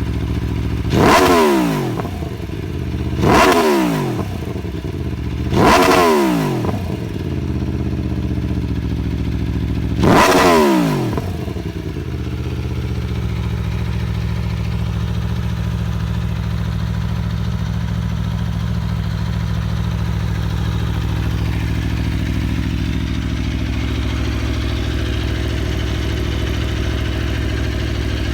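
Aprilia Tuono 1100's V4 engine and exhaust: four quick throttle blips in the first ten seconds or so, each revving up and falling straight back, then idling steadily.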